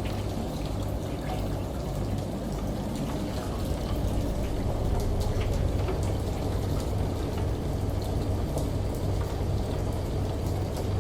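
Layered water ambience: running water with a steady low hum underneath and scattered light raindrop ticks, growing a little louder about four seconds in.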